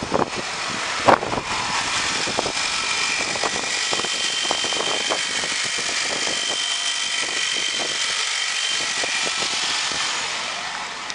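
Nissan MR20 2.0-litre four-cylinder petrol engine idling steadily with the bonnet up, with a faint high whine for a few seconds in the middle. A single sharp knock sounds about a second in.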